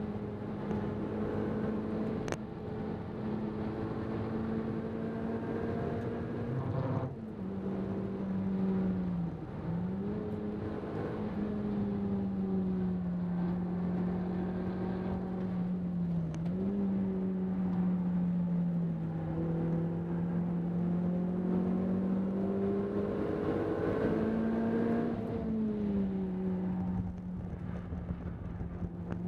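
Renault Clio 200 Cup's 2.0-litre four-cylinder engine heard from inside the cabin, pulling hard on a track lap. It holds a steady note, drops suddenly about a quarter of the way in, dips and picks up again a couple of times, then rises and falls back near the end. Tyre and wind noise runs underneath.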